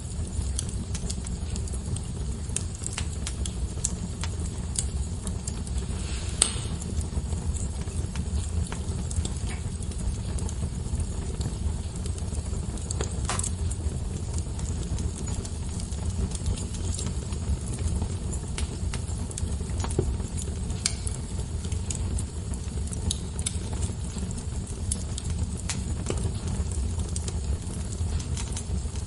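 Wood fire burning in a fireplace: a steady low rumble of flame with continual small crackles and a few louder pops, about 6 and 13 seconds in.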